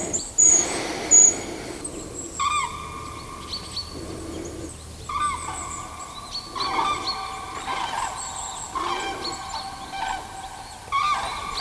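A bird gives long, repeated calls, about five spaced over several seconds, each opening with a short upward hook; a few short high chirps sound in the first second.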